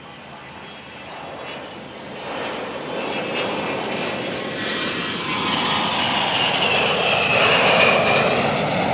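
Dassault/Dornier Alpha Jet passing with its turbofans running. The engine noise builds steadily to a peak near the end, and its high whine falls in pitch as the jet goes by.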